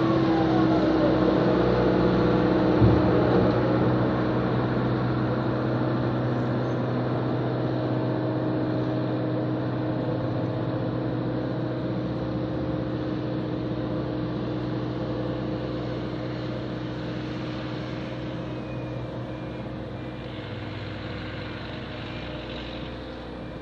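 Engine of a snow-plowing vehicle running steadily, with one sharp knock about three seconds in. It slowly grows quieter.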